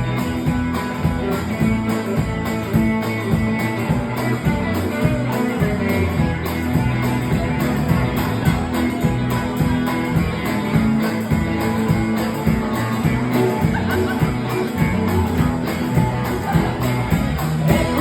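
Live band playing an instrumental break in a country song: guitar over bass and drums, with a steady quick beat.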